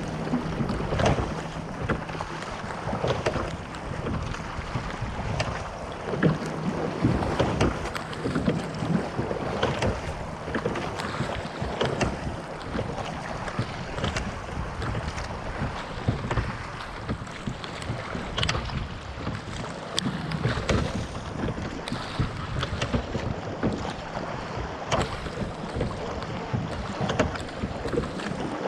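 Cornish pilot gig being rowed at a steady pace: a regular knock and splash at each oar stroke, over the wash of water along the hull and wind on the microphone.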